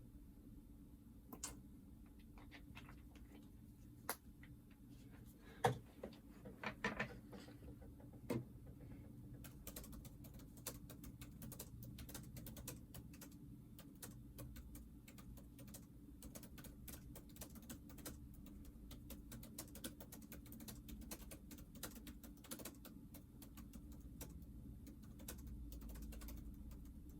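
Faint clicks and taps of small plastic parts and tools being handled on a workbench during a handheld console repair. There are a few louder knocks between about four and eight seconds in, then a dense, rapid run of light clicks for the rest.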